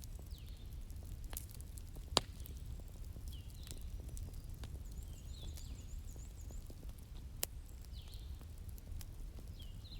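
Wood fire crackling, with sharp pops over a low rumble, the loudest pop about two seconds in. Birds chirp now and then, with a quick run of high chirps around the middle.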